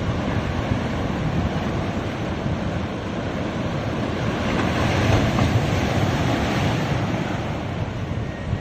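Ocean waves on a beach: a steady wash of surf with a low rumble, swelling slightly around the middle.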